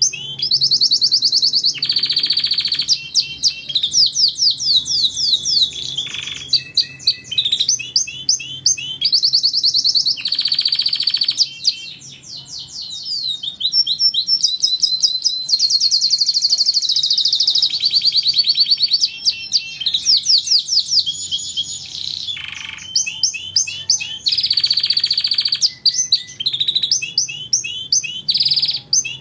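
Domestic canary singing a long run of fast trills and rapidly repeated high chirps, the phrases changing every second or two.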